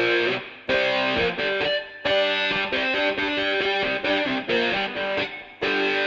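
Rock music: a distorted electric guitar playing a riff in short phrases, broken by brief gaps.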